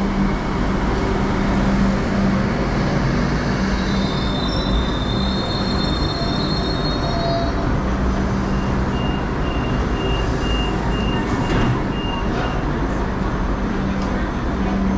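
Hong Kong Light Rail Phase V train running through a stop: a steady rumble with a low hum, a brief high wheel squeal about four seconds in, and a run of short high beeps, about two a second, around ten seconds in.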